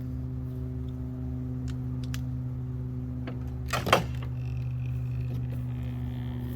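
A steady mechanical hum throughout, with a few light clicks and one short rattling knock a little before four seconds in, the loudest moment.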